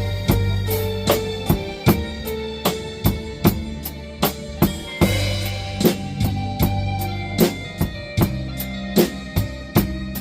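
Drum kit played in a blues groove, kick and snare strikes about two to three a second, over a blues backing track with a held bass line.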